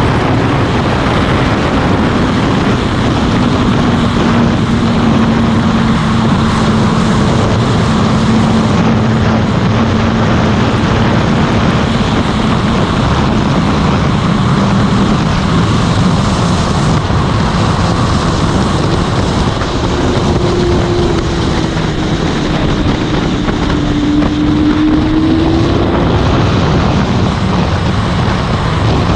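Motorcycle engine running on the road, its note drifting down and then rising again near the end, under heavy wind noise on the microphone.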